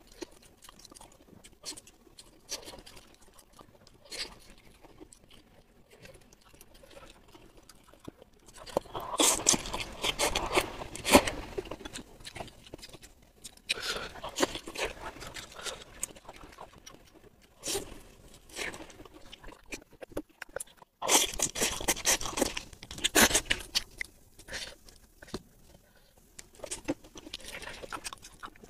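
Close-miked eating sounds: chewing and crunching on fried skewer pieces and saucy wide noodles, in short scattered crackles. Two spells of louder, denser eating noise come about a third of the way in and again about three-quarters through.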